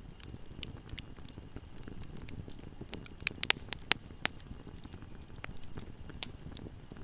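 Wood bonfire burning: a steady low rumble of flames with scattered sharp crackles, and a quick cluster of loud pops about three to four seconds in.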